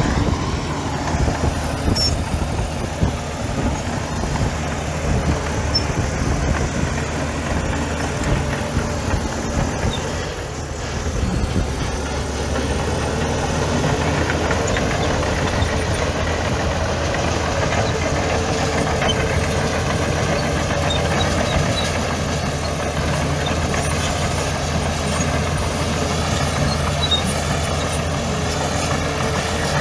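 Heavy diesel engine of earthmoving machinery running steadily, with a short dip in loudness about ten seconds in.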